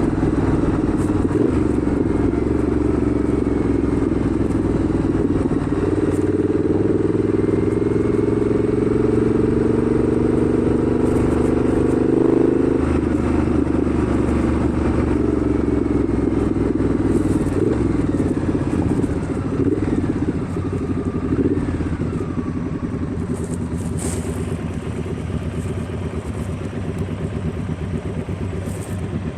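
Motorcycle engine running steadily under way, with wind noise. The engine note shifts about 13 seconds in, and the sound eases slightly later on.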